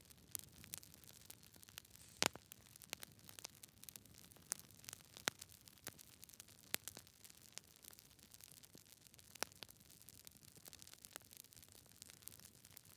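Wood fire in a fireplace crackling: irregular sharp pops and snaps over a faint hiss, the loudest pop about two seconds in.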